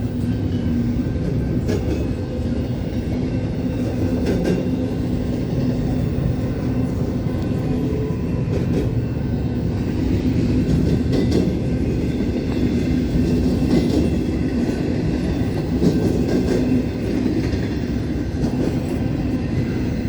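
Freight train cars rolling past in a steady rumble, with wheels clicking over the rail joints.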